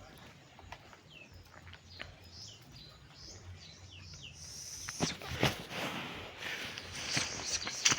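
Small birds chirping, short downward-sliding calls repeating every half second or so. From about halfway a louder rustling, crackling noise comes in with a couple of sharp knocks.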